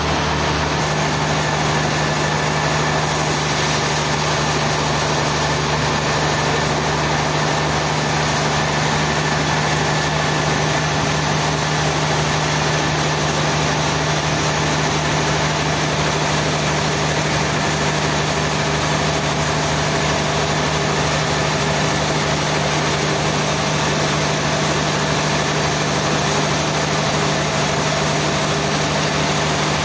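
Sawmill machinery engine running steadily at a constant speed, a continuous even hum with no change in pitch.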